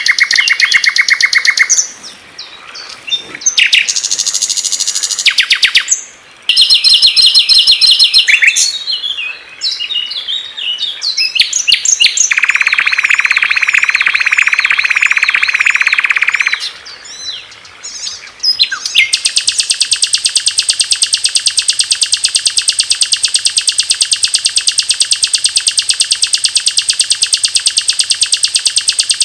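Songs of several small songbirds played one after another: fast repeated chirps and trills that switch abruptly from one bird to the next, a dense buzzy warble about halfway through, and a long, very fast, high trill over the last ten seconds.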